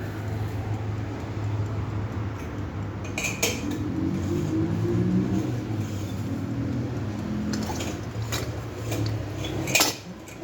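Kitchen utensil clatter: a metal utensil working in a bowl, with several sharp clinks, the loudest near the end, over a steady low hum.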